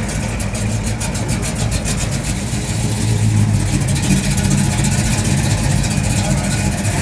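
Dodge Charger's engine and exhaust rumbling as the car rolls slowly past at low revs, growing louder about three seconds in as it comes closest.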